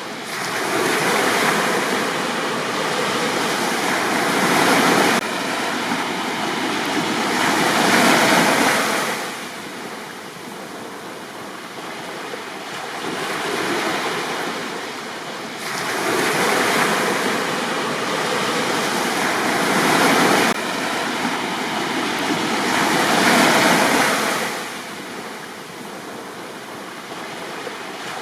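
Sea waves breaking on a beach and washing back, the surf swelling and fading about every five to seven seconds.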